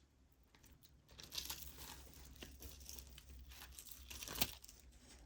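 Faint rustling and crinkling with scattered light clicks as jewelry pieces are handled and sorted, with a sharper click about four seconds in.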